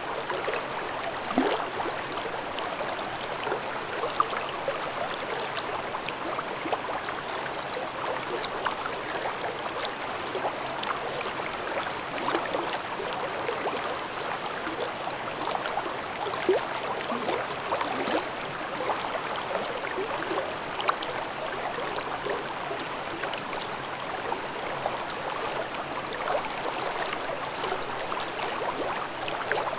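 Mountain stream babbling over rocks: a steady rush of flowing water with many small gurgles and splashes.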